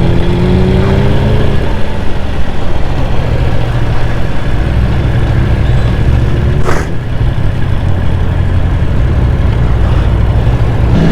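Sportbike engines running steadily and loudly, with a slight rise in engine pitch in the first second and a half and a brief hiss about seven seconds in.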